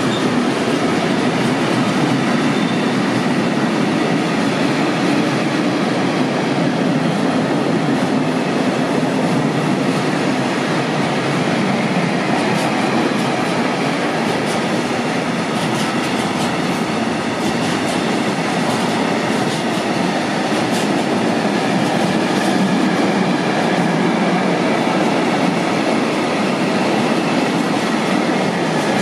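Freight train of container flat wagons rolling past at speed: a steady rumble of wheels on rail, with scattered sharp clicks from the wheels in the middle stretch.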